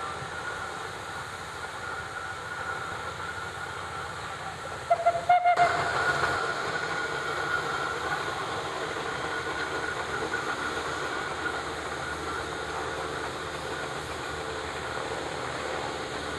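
Steam traction engine running with a steady hiss of steam. About five seconds in comes a brief, louder tone.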